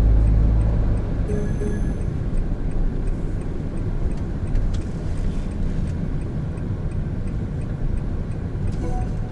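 In-cabin driving noise of a 2017 Honda N-BOX Custom with its 660 cc turbo engine: a steady low rumble of engine and road, loudest in the first second.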